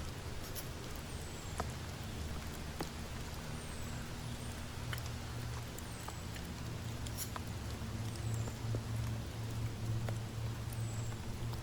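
Rain falling, with scattered sharp drop ticks over a steady low hum. Faint, high, short chirps that slide down in pitch recur every second or two.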